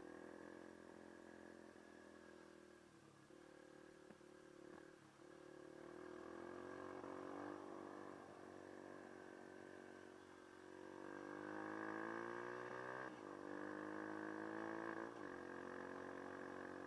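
Dirt bike engine running as the bike is ridden, its pitch rising and falling with the throttle, and dropping sharply twice near the end.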